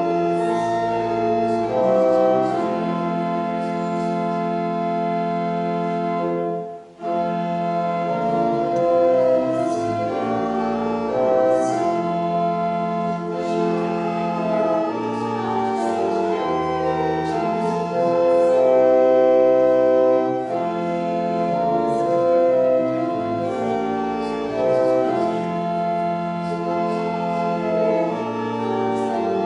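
Church organ playing slow, sustained chords that change every second or two, with a brief break about seven seconds in before the playing resumes.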